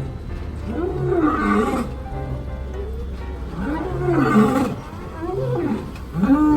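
Lion roars, each one rising and falling in pitch, repeated about four times over background music with a steady low bass line.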